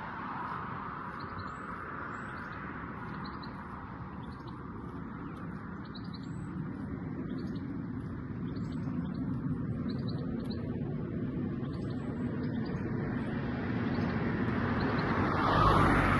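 Small birds chirping repeatedly over the steady hum of road traffic, which grows louder near the end.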